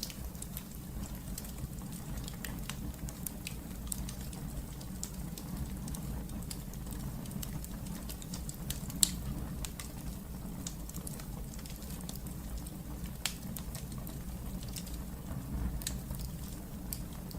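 Wood fire crackling in a fireplace: scattered sharp pops and snaps over a low, steady rumble of the flames, with one louder pop about nine seconds in.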